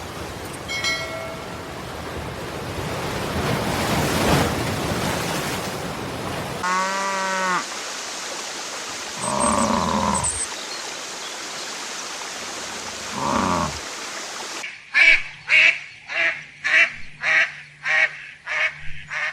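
Animal calls over a steady noisy background: a few separate pitched calls, then for the last few seconds a quick, regular series of calls at about two a second.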